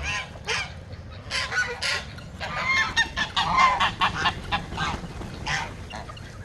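Geese honking, a run of short repeated honks one after another.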